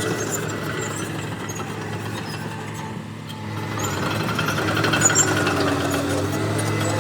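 Heavy diesel engine of earthmoving machinery running. It eases off about three seconds in, then picks up again and rises in pitch.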